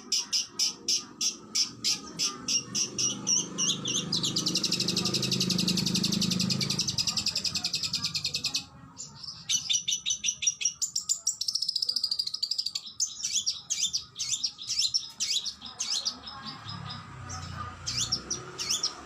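Oriental magpie-robin (kacer) singing. It opens with a fast run of sharp repeated notes, about five a second, then a rapid buzzing trill for several seconds. The trill breaks off about eight and a half seconds in, and the song goes on in varied whistled phrases.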